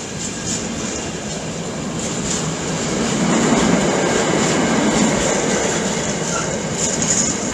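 A train passing through on the line: steady wheel-on-rail running noise that grows louder about three seconds in, then slowly eases.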